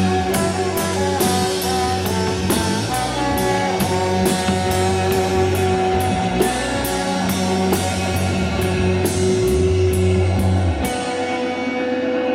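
Live rock band playing an instrumental passage: electric guitar over bass and a drum kit, with cymbal strokes about twice a second. Near the end the drums and bass drop out, leaving a held guitar tone ringing on.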